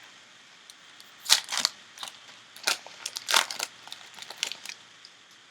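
Trading card pack being handled and opened: short crinkling, rustling bursts of the wrapper and cards, the loudest about a second and a half in and again past three seconds, with small clicks between.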